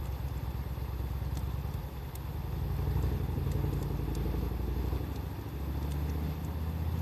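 A motor vehicle's engine running with a low, steady rumble that shifts in pitch about five and a half seconds in, over a wood fire crackling with occasional sharp pops.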